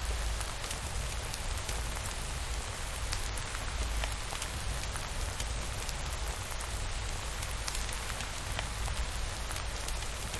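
Steady rainfall with scattered sharp ticks of drops and a deep, even low rumble underneath.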